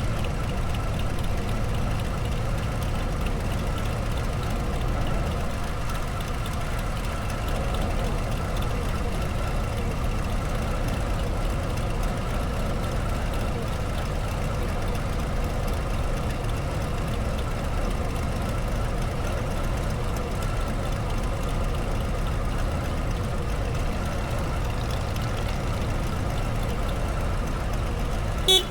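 Harley-Davidson Low Rider ST's V-twin engine running steadily, with a short click near the end.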